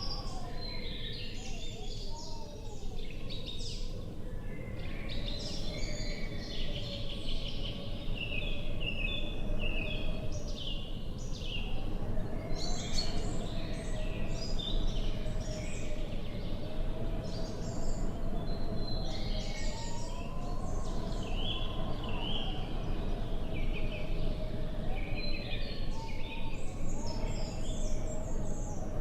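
Many small birds chirping and calling in quick, overlapping phrases, over a steady low background rumble and a faint wavering tone.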